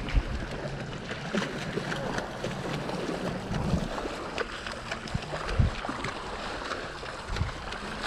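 Horse wading through shallow seawater: steady splashing and sloshing around its legs, broken by irregular thumps.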